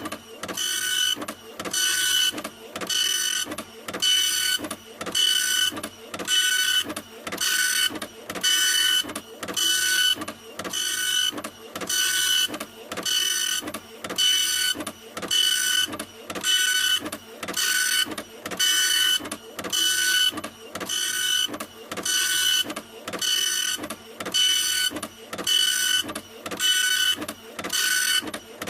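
Printer running continuously, its print head sweeping back and forth in a steady rhythm of about three passes every two seconds, each pass a whirring whine.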